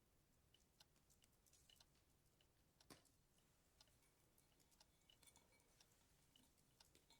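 Near silence with faint, irregular small clicks and taps, one a little louder about three seconds in.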